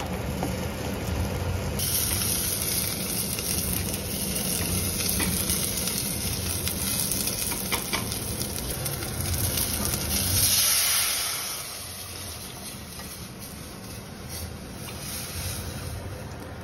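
Oil sizzling as food fries in hot pans, with a spatula stirring, over a steady low hum. A louder hissing sizzle swells about ten seconds in, then the sound drops to a quieter steady level.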